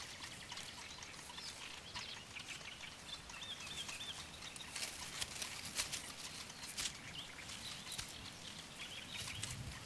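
Faint reed-marsh ambience: brief, wavering high chirps of small birds, several times, over a low hiss with scattered soft clicks and rustles.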